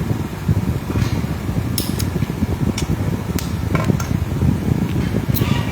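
A steady low mechanical running noise, with about half a dozen sharp clicks or clinks at uneven intervals.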